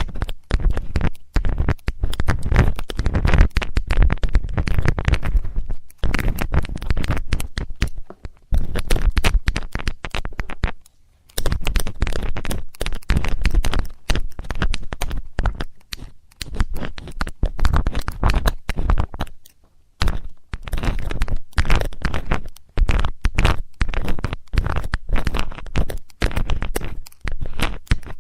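Metal ear-cleaning tools scraping and rubbing against a microphone's ear, close up, in quick strokes with a deep rumble. Short pauses come about 6, 11 and 20 seconds in.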